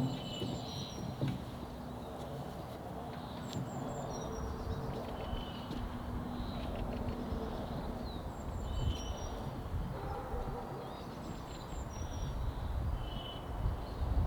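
A songbird singing the same short phrase of high chirps over and over, about every four seconds, over a steady low rustling noise.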